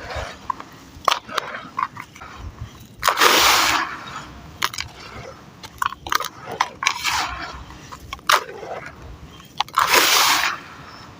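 Clumps of dry sand and cement crumbling in water, with scattered small clicks and crackles. There are two longer, louder rushes of breaking and sloshing, about three seconds in and again near the end.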